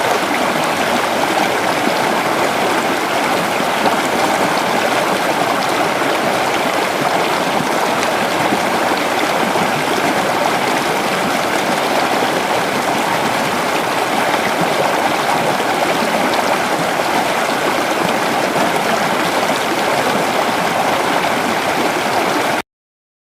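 Creek water flowing, a steady rushing and gurgling that holds an even level, then cuts off suddenly near the end.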